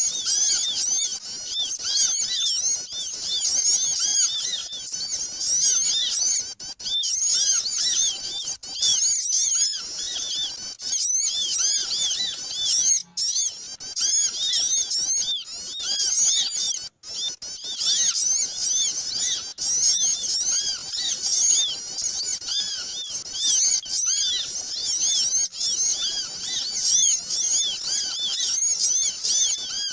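Many small songbirds chirping and chattering at once, a dense, noisy flock of overlapping high, quick notes. This is a bird-lure (pikat) recording meant to draw in wild small birds.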